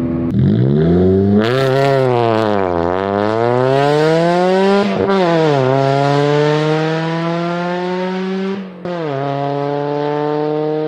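Ford Fiesta ST's engine accelerating hard, the revs climbing and falling. Each time the revs climb, they drop sharply at a gear change, about five seconds in and again near nine seconds, then climb again.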